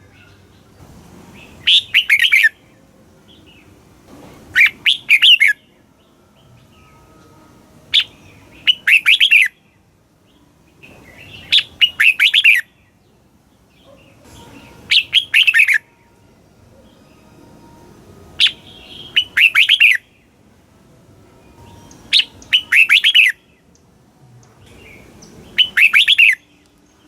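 Red-whiskered bulbul singing short, bright phrases, each under about a second and a half, repeated eight times at roughly three-second intervals with quiet gaps between.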